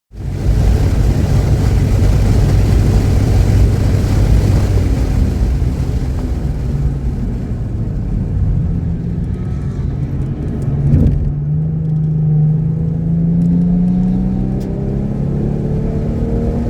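Car engine running hard at speed, with heavy wind and road noise over the first several seconds. About eleven seconds in there is a short thump, then the engine note climbs steadily as the car accelerates, running cleanly without misfiring.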